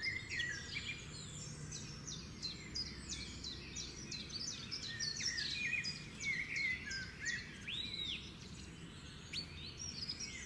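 House finches chirping and twittering: a dense run of short, high, quick notes, many sliding downward, with an arching whistle about eight seconds in. A steady low background rumble runs underneath.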